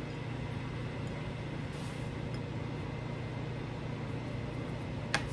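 Steady low electrical or mechanical hum with a faint hiss, like a household appliance or fan running, and one sharp click about five seconds in.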